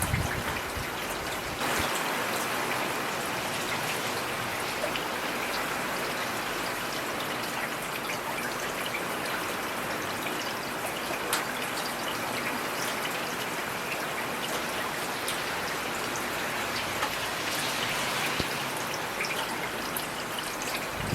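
Heavy rain falling steadily: a dense, even hiss with individual drops ticking sharply through it.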